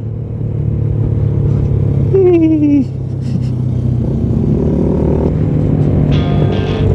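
Suzuki Raider 150 Fi single-cylinder four-stroke motorcycle engine running on the road, its note changing about four seconds in. A brief tone falling in pitch sounds about two seconds in. Background guitar music comes in near the end.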